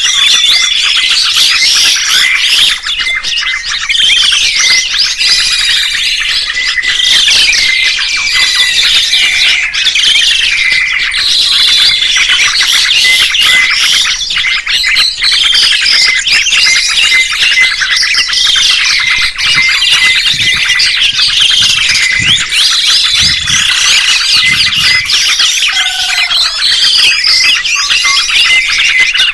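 Dense chorus of small songbirds chirping and twittering, many short gliding calls overlapping without pause.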